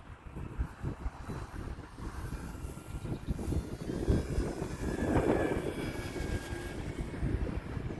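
Electric motor and propeller of an E-flite T-28 1.2m RC plane in flight, a faint whine that swells to its loudest about halfway through as the plane passes, with wind buffeting the microphone.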